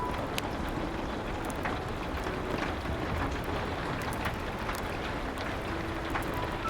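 Steady rain against a window with scattered sharp crackles from a wood fire, and a few faint, soft piano notes.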